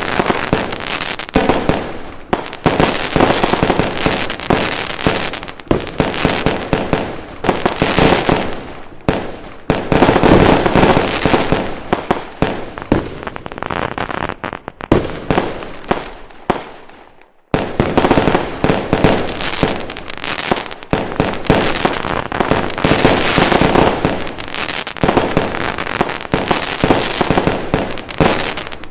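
A fireworks barrage: a dense, continuous run of firecracker bangs and crackling. It fades and cuts out briefly a little past the middle, then starts again abruptly at full density.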